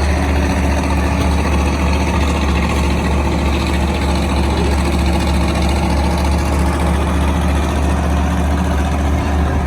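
Tractor engine running steadily at low speed while pulling a hay wagon: a loud, even low drone with a steady hum above it.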